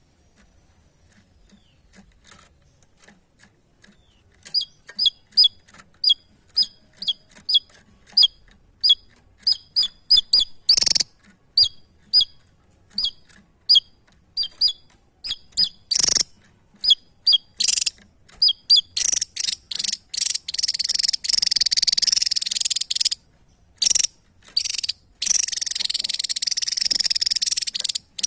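Small songbird calling loudly: sharp high chirps repeated about twice a second, then, about two-thirds of the way in, a fast unbroken high song with a couple of short pauses.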